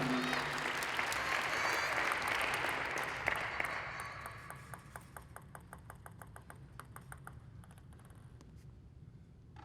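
Crowd applauding, dying away over about five seconds into a few scattered claps.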